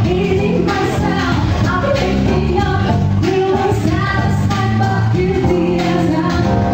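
A band playing a pop song, with a singing voice over bass and a steady drum beat.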